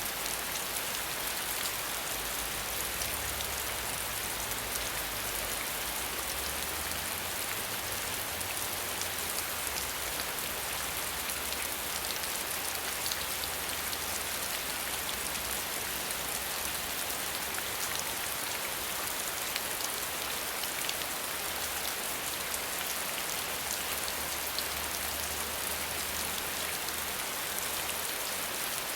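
Steady rain without thunder: a constant hiss of falling rain with fine, dense drop patter. A faint low rumble swells and fades underneath at times.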